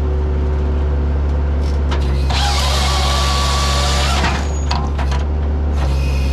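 A skid steer's diesel engine runs steadily, driving a Halverson 140B firewood processor. Its hydraulic saw bar cuts through a log from about two seconds in for roughly two seconds, and starts cutting again near the end.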